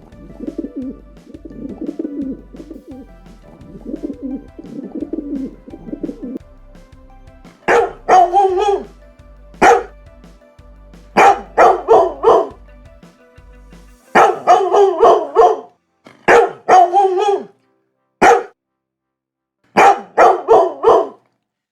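A bird cooing in soft, low, repeated phrases for about six seconds, then a dog barking loudly in quick groups of two to five barks with short pauses between them.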